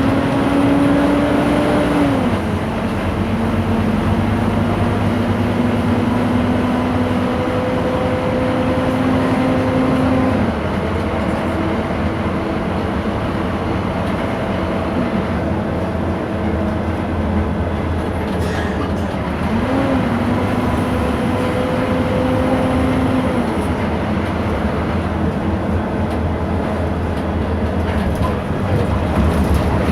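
Scania K230 city bus driving, its engine and ZF automatic gearbox giving a steady whine over continuous road rumble. The whine's pitch drops abruptly about two seconds in and again around ten seconds in, as the gearbox shifts. It dips and climbs once more near twenty seconds before fading out.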